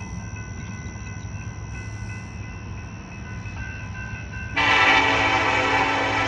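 Diesel locomotive of a BNSF coal train rumbling as it approaches slowly; about four and a half seconds in, its air horn sounds loudly and holds.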